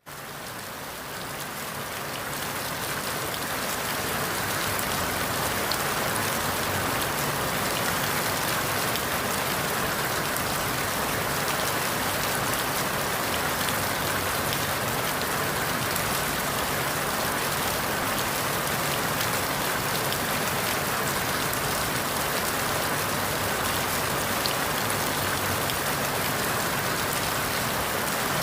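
Steady rainfall on forest leaves, a dense even patter with scattered individual drops, fading in over the first few seconds and then holding steady.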